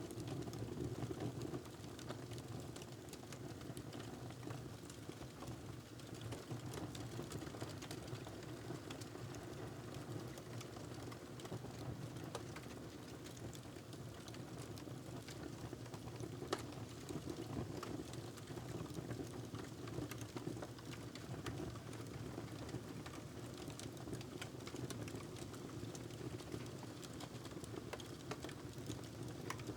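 Wood fire crackling in a fireplace: many scattered sharp crackles and pops over a steady low rumble.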